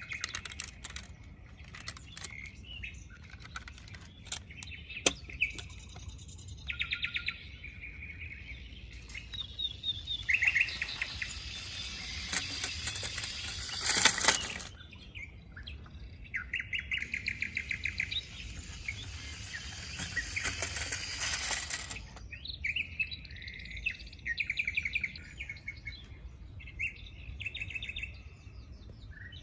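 Birds chirping in short, rapid trills, again and again. A high steady hiss joins from about a third of the way in until about three quarters through.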